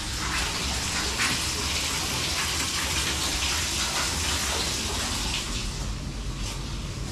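Water running steadily from a newly installed faucet into the sink, purging the new lines while the connections are checked for leaks.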